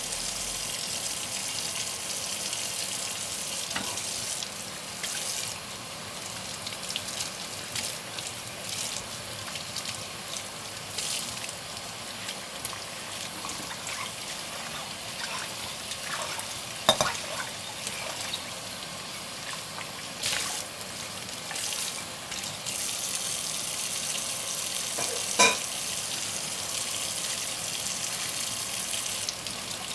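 Dishes being washed by hand under a running tap: water hissing and splashing into the sink, growing louder in the last quarter. Two sharp clinks of dishes knocking together, one just past halfway and a ringing one near the end.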